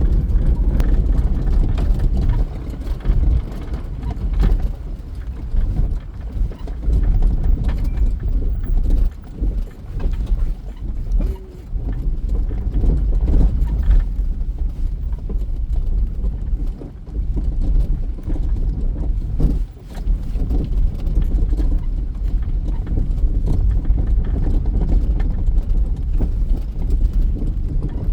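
Taxi driving, heard from inside the cabin: a loud, uneven low rumble with scattered knocks and jolts, and a few brief drops in level.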